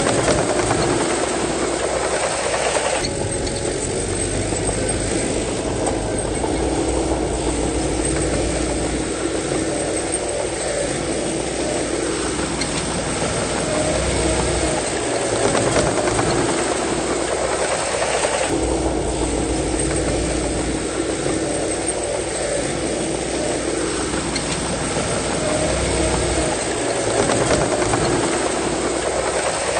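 Heavy diesel earthmoving machinery running continuously, its engine note changing in a cycle that repeats about every fifteen seconds.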